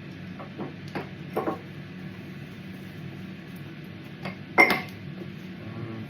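Mug and crockery being handled while making tea: several small knocks and clinks, the loudest about four and a half seconds in with a short ring. Underneath is a steady low hum from the air fryer running.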